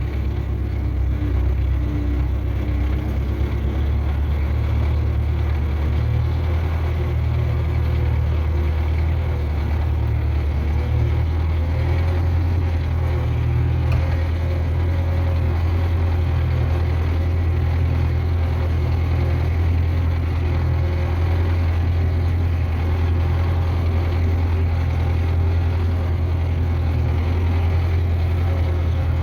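Tractor engine running steadily with an even, deep drone.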